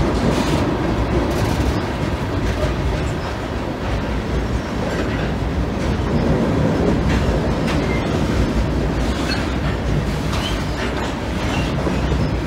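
Loaded hopper cars of a rock train rolling across a steel girder railroad bridge: a steady rumble of wheels on rail with repeated clacks at the rail joints.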